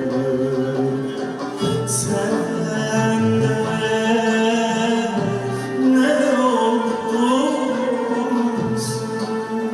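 Turkish art music performed by an ensemble: a slow melody of held notes over accompanying instruments, with a wavering vibrato note about six seconds in.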